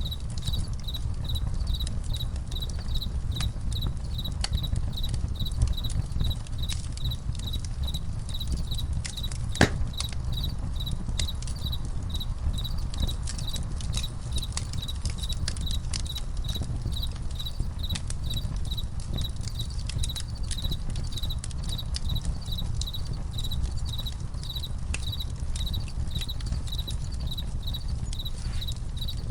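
Campfire crackling with scattered sharp pops, one louder pop about ten seconds in, over a steady low rumble. Crickets chirp in an even, continuous pulsing under it.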